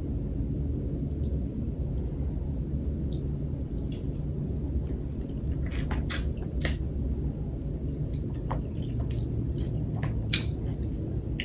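A person chewing food close to the microphone, with scattered short wet mouth clicks, over a steady low hum.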